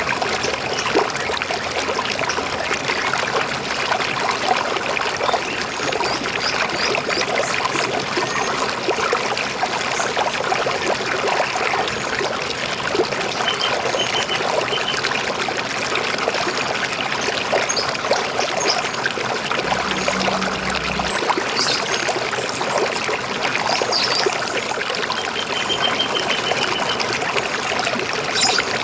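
River water flowing and trickling steadily, with a few faint, short, repeated bird chirps twice along the way.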